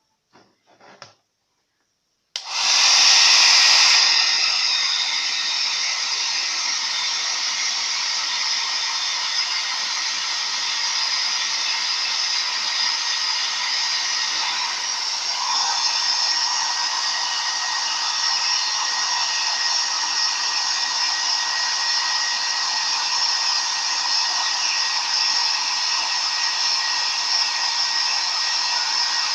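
Nova NHP-8100 1200-watt handheld hair dryer switched on a little over two seconds in, then blowing steadily. It is loudest for its first second or so and then settles to an even level. A few faint handling clicks come before it starts.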